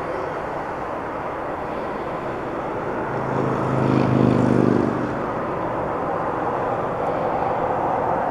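Steady rumble of airliner jet engines. A louder humming swell lasts about two seconds, starting roughly three seconds in.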